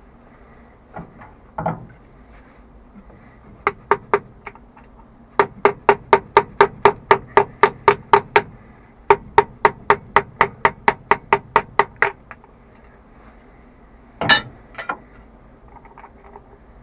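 Hammer blows on metal: a few single knocks, then two quick even runs of about a dozen ringing strikes each, about four a second, with a short pause between. One louder clank comes near the end.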